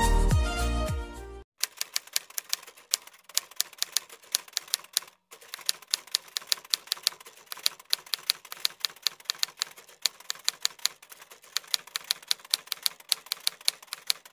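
Background music that stops abruptly about a second and a half in. It is followed by a quick, uneven run of typewriter key clacks, a typing sound effect with a short pause about five seconds in.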